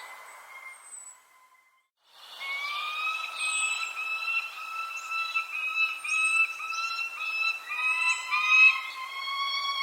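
Birds calling and chirping over steady, whistle-like held tones. The sound drops away to near silence about a second and a half in, then resumes at full level a moment later.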